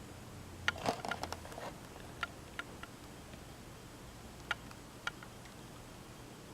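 Light plastic clicks and taps of a diecast model car in its blister-card packaging being handled, a cluster about a second in, then single clicks every second or so.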